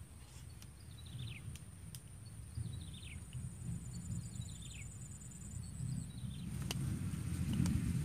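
A bird calling four times, each call a quick run of notes falling in pitch, about every one and a half seconds, over a steady high insect drone and a low rumble that grows louder near the end.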